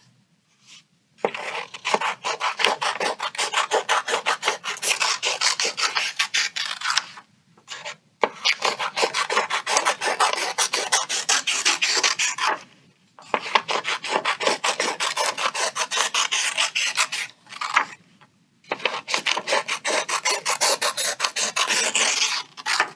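Scissors cutting through paper in four long strokes of rapid rasping snips, with short pauses between them: paper being cut into strips.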